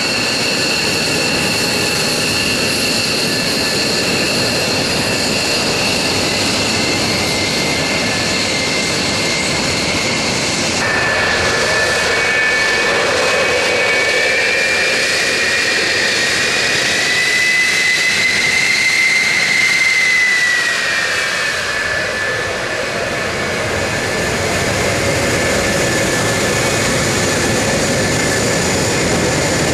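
Military jet aircraft flying past: a steady loud jet roar with a high whine that climbs slowly in pitch and then falls away about twenty seconds in as the jets pass.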